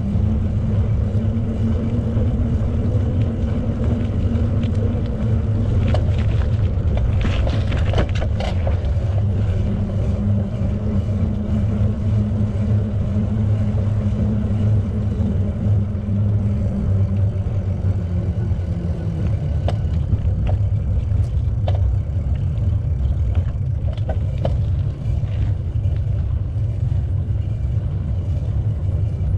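Wind buffeting the camera microphone and tyre noise as a bicycle is ridden, a steady low rumble. A few short clicks and rattles come through, a cluster about seven to eight seconds in and more toward the end.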